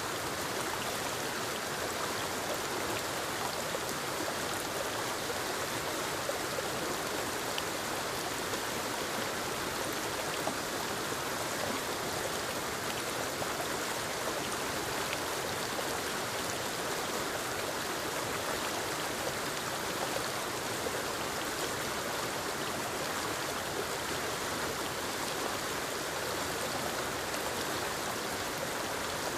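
Rushing water of a forest creek and waterfall, a steady even hiss with no change in level.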